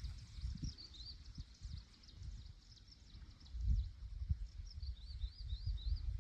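A small bird singing short series of quick, arched high chirps, near the start and again about four and a half seconds in, over gusty low rumbling of wind on the microphone.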